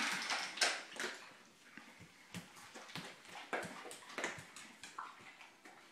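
Dogs eating dry dog food: irregular short crunches and clicks as the kibble is chewed.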